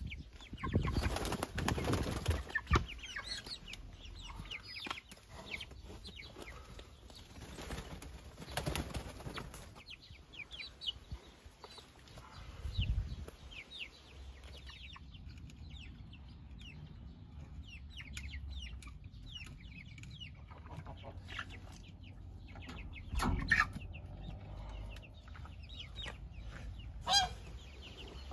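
Meat chickens clucking and cheeping, with loud bursts of wing flapping a second or two in and again around eight seconds in.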